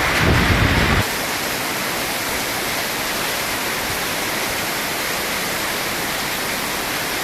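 Heavy rain pouring down in a steady hiss. A louder low rumble in the first second cuts off abruptly.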